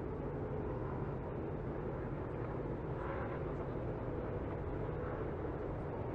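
Steady, even rumble of NASCAR race trucks' V8 engines heard at a distance as track ambience.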